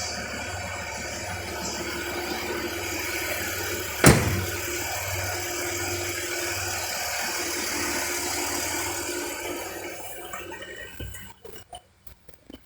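Land Rover Discovery 3's 2.7 V6 turbo diesel engine idling with a low pulsing hum, broken by a single sharp knock about four seconds in. The engine sound fades out near the end, followed by a few small clicks.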